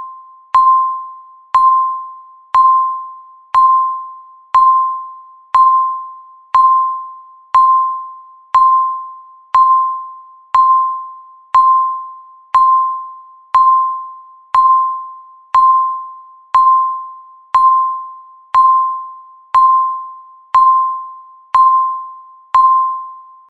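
Countdown timer's tick sound: a short, clear electronic ding that starts sharply and fades fast, repeating steadily once a second through the final seconds of the countdown.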